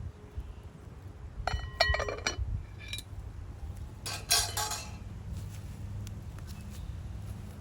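Metal cookware and utensils clinking: a quick cluster of ringing clinks about a second and a half in, another near three seconds, and a rattling clatter around four seconds, over a steady low hum.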